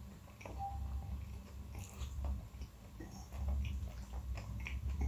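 Close-up chewing and mouth sounds of a person eating creamy instant-noodle carbonara: small wet smacks and clicks, over a steady low hum.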